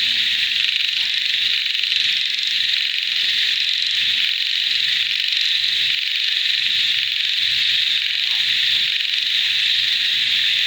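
Dense, steady chorus of crickets and frogs, a continuous high-pitched trilling with faint scattered calls underneath.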